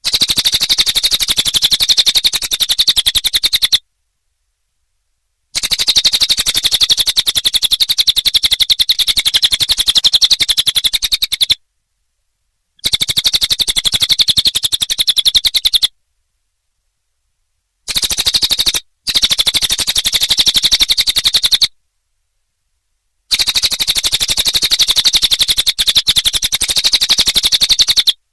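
Recorded lure call of a cililin bird: a very fast, high-pitched chattering trill of rapidly repeated notes, in runs of a few seconds that cut in and out abruptly with silent gaps between them.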